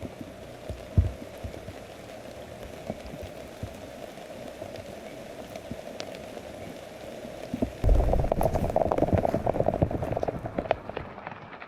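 Steady rain falling on a surface, with scattered drops tapping. About eight seconds in it suddenly turns to a much louder, denser patter for roughly three seconds.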